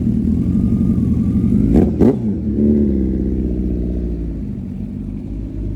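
A vehicle engine running, revved once about two seconds in with two sharp cracks at the peak, then dropping back to a steady run.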